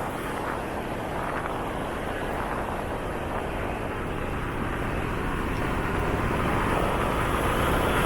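Motorcycle riding noise: rushing wind with a low engine and road rumble, a dense steady noise that grows slowly louder toward the end.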